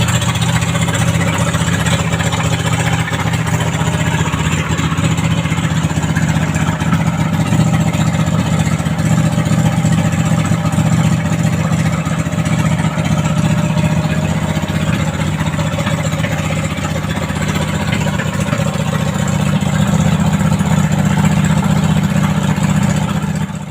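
Pro-Quip 26 hp ZS Power V-twin engine running at a steady speed, loud and even, with no revving.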